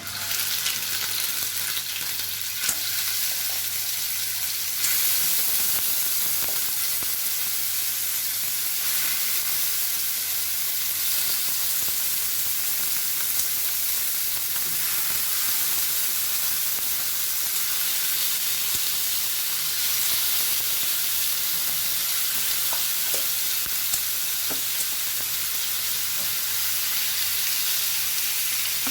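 Beef pieces sizzling in hot oil in a pan, the sizzle starting as they go in and getting louder about five seconds in, then holding steady.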